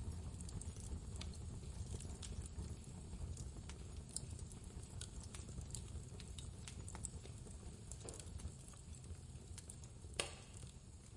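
Wood fire crackling with irregular sharp pops, one louder pop near the end, over the steady low rumble of blizzard wind.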